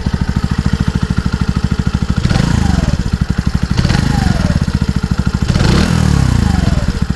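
Mutt Razorback 125 motorcycle's single-cylinder 125 cc engine idling with a steady beat, its throttle blipped three times, each rev rising and then falling back to idle.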